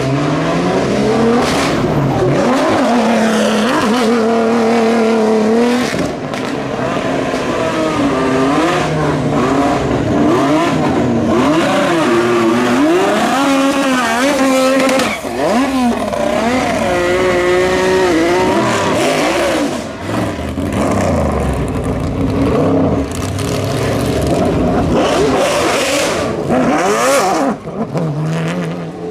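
Racing car engines at full throttle, revving hard and shifting gears, their pitch climbing and dropping sharply over and over.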